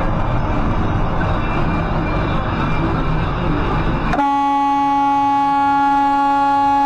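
Loud road and traffic noise, then about four seconds in a vehicle horn starts abruptly and is held in one long, steady blast.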